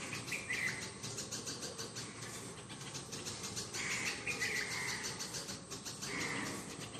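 Birds calling in short bouts: at the start, around four seconds in and again near six seconds, over a steady rapid high rasping background.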